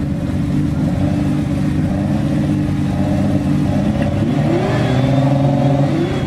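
A car engine running steadily at close range, its pitch holding level, at a drag race.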